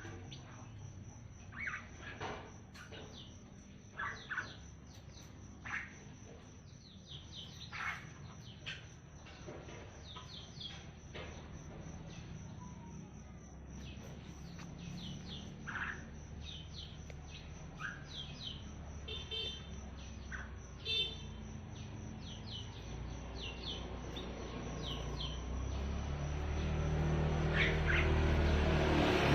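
A tame jalak putih (white starling) giving short, scattered chirps and squawks, many of them quick sliding notes. A low rumble builds up over the last few seconds.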